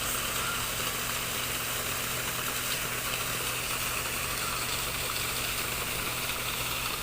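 Steady hiss of flowing water over a low, even machine hum.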